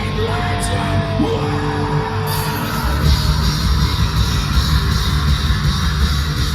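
Live heavy rock band playing loud, with a vocalist holding a yelled note in the first second or so, then the full band with drums and distorted guitars driving on.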